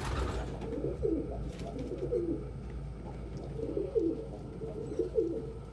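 Domestic pigeons cooing, a run of low rolling coos one after another. A sharp click sounds right at the start.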